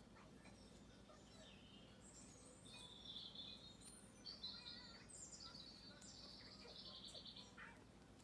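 Faint birdsong: several birds chirping and twittering from about two seconds in, with a quick trill near the end.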